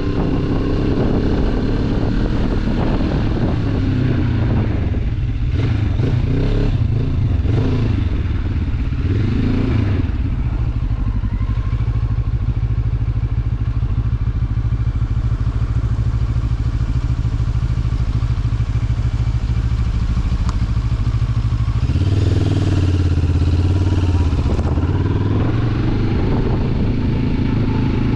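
Motorcycle engine running under way. The engine note rises and falls with the throttle in the first few seconds, holds steady for a long stretch, then changes pitch again about two-thirds of the way through.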